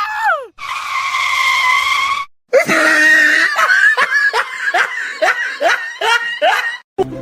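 High-pitched shrieking: a short falling cry, then a held shriek about a second and a half long, then a run of quick rising squeals, two to three a second, that stops abruptly near the end.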